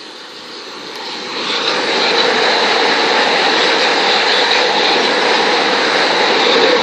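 Southern Class 377 electric multiple unit passing at speed on the fast line. A rushing roar of wheels on rail swells over the first two seconds, then holds steady and loud.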